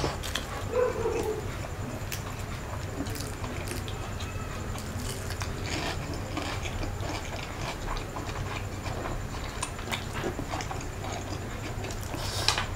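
A man chewing mouthfuls of beef fried rice, with wet lip smacks and small mouth clicks throughout, louder near the end as he takes another handful into his mouth.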